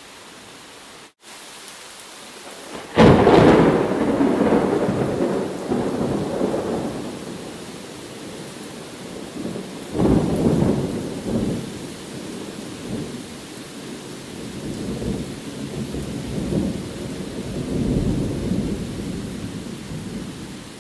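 Recorded thunderstorm ambience: a steady hiss of rain, then a sudden loud thunderclap about three seconds in that rumbles away over several seconds, a second peal near the middle, and further rolling thunder toward the end.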